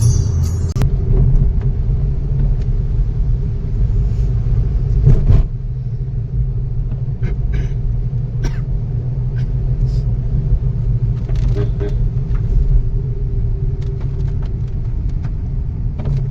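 Steady low rumble of a motor vehicle driving, with scattered short knocks and clicks and a louder thump about five seconds in. Intro music cuts off in the first second.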